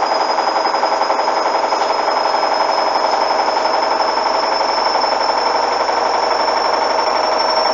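Hoover washing machine spinning up, a steady loud machine sound with a fast flutter and a high motor whine that climbs slowly in pitch as the drum speeds up toward 800 rpm.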